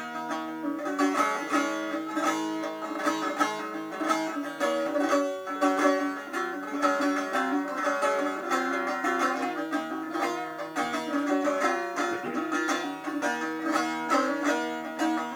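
Instrumental break of a Turkish folk song, led by a plucked string instrument playing a busy, quickly moving melody.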